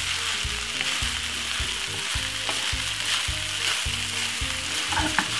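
Chicken fried rice sizzling in a hot frying pan as it is stirred and tossed with a wooden spoon, a steady frying hiss. A low, steady beat of background music runs underneath.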